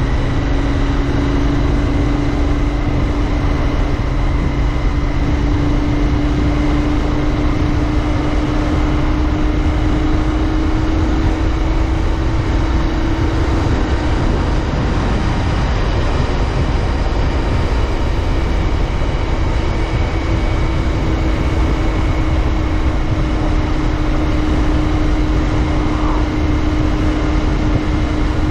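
Royal Enfield Interceptor 650's parallel-twin engine running at a steady cruise, its note rising slightly over the first dozen seconds and then holding, over steady wind and road noise.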